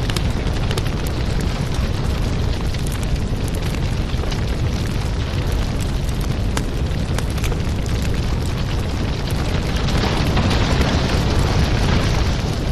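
Wood fire crackling, with a steady low rumble and scattered sharp pops; a louder hiss swells about ten seconds in, then eases off.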